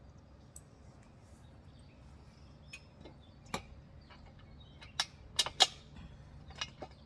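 Scattered sharp metal clicks and clinks of Springfree trampoline frame parts being handled and fitted together, with a cluster of three louder knocks a little past halfway.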